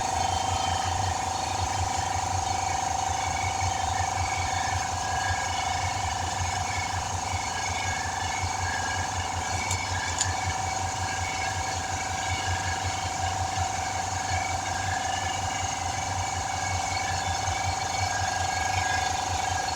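An air compressor running steadily, with a rapid even low pulsing and a constant whine above it.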